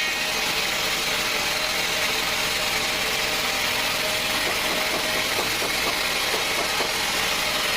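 Sawmill machinery running steadily: a continuous engine-driven mechanical drone with a high hiss, holding an even level throughout.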